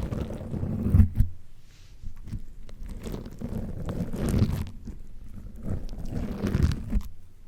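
Slime squished, stretched and pressed directly against a microphone: irregular sticky squishing with small clicks and pops, in swells that are loudest about a second in and again near four and a half and six and a half seconds in.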